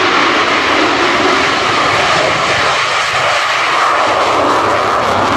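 Loud, steady jet noise from military jets flying past in formation with the F-35B Lightning II.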